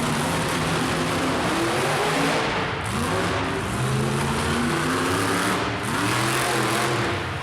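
Monster truck engine revving hard, its pitch climbing and dropping several times over heavy engine noise.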